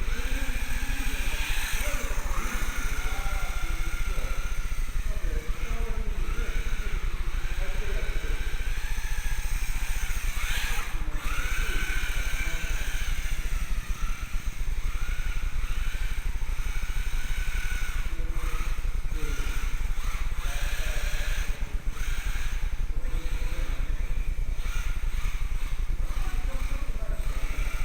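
Electric motor and gear drive of a 1/16 four-wheel-drive RC rally car whining, its pitch rising and falling as the car speeds up and slows, over a steady low rumble.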